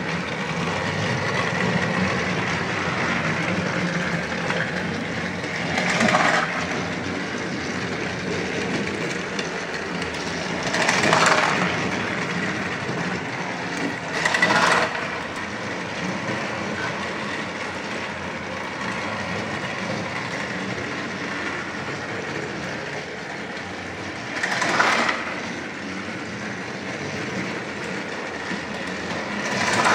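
Battery-powered Thomas & Friends TrackMaster toy trains running on a toy track, a steady motor whir and rattle of wheels. Louder swells come every few seconds.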